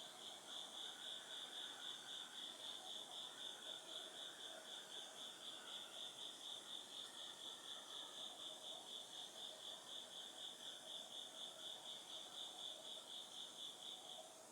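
A single autumn insect singing a steady, high, pulsing trill of about four pulses a second, which stops near the end, over fainter insect calls.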